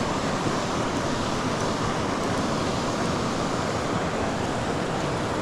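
Steady rush of creek water pouring over a small waterfall.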